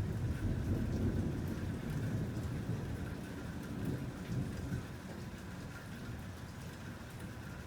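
Thunder rumbling low, fading away about two-thirds of the way through, over steady rain with scattered drop hits.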